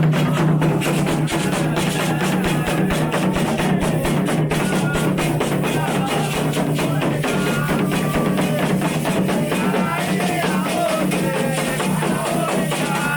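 Candomblé ritual music: hand drums beaten in a fast, steady rhythm, with voices singing over them.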